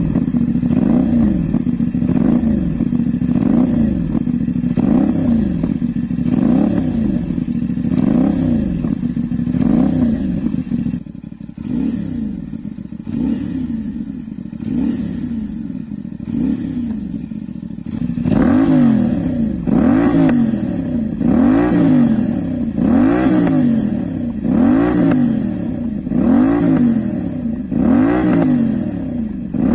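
CFmoto 450SR parallel-twin engine breathing through an aftermarket RS exhaust, revved over and over in short throttle blips, each rising and falling about every second and a half to two seconds. It runs quieter and less regular for several seconds in the middle, then the blips resume.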